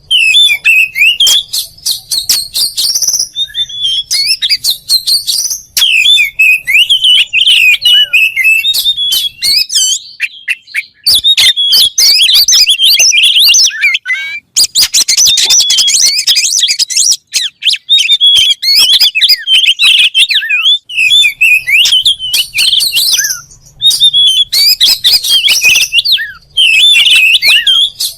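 Oriental magpie-robin (kacer) singing loudly: a fast, varied string of whistles and chattering chirps in phrases broken by short pauses.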